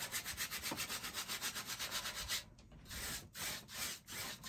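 A 2-inch paintbrush scrubbing a thin coat of liquid white onto a canvas in quick back-and-forth strokes, about nine a second. After a short pause about halfway through, a few slower, longer strokes follow.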